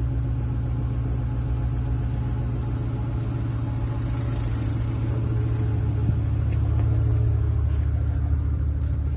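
Truck engine running steadily at idle, a low even rumble that swells slightly about seven seconds in.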